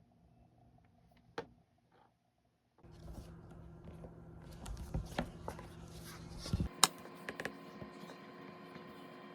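Faint room tone with a few small clicks and knocks, the sharpest about seven seconds in, over a steady low hum that starts about three seconds in.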